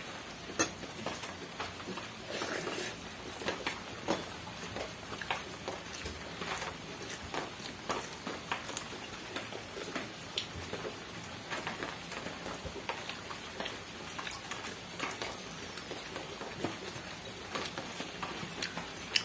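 Steady rain pattering, with scattered sharp clicks over it.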